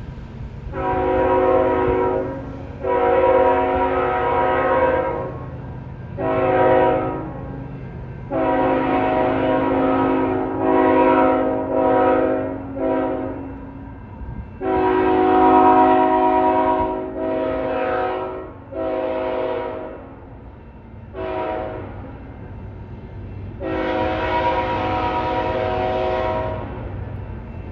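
CN freight locomotive's multi-note air horn sounding about a dozen blasts, some long and some short, over the steady low rumble of the passing train.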